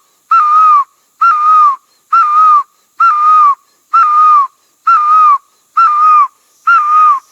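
A loud whistled bird-like call: one note, about half a second long, with a quick upward flick at the start and a drop at the end. It repeats about once a second, eight times, each call the same as the last.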